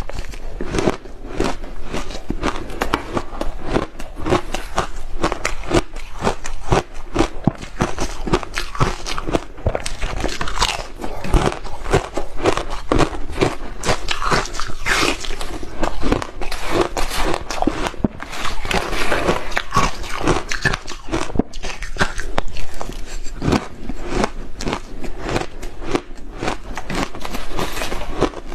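A person biting and chewing hard ice close to the microphone: a dense, unbroken run of loud crunches and crackles as the ice breaks between the teeth.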